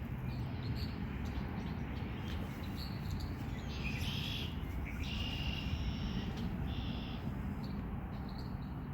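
Birds calling, with several short high chirps through the middle, over a steady low background noise.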